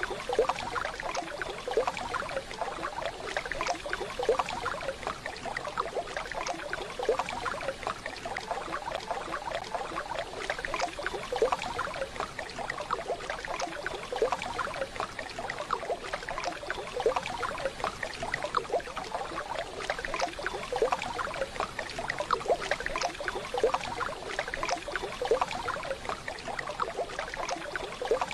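Waterfall sound: a steady rush of falling water with dense, continuous splashing and trickling.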